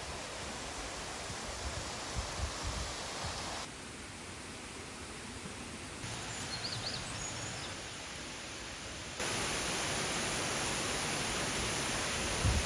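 Rushing water of a waterfall and its stream, a steady hiss, heard in several cut-together clips whose level jumps at each cut. It is louder from about nine seconds in.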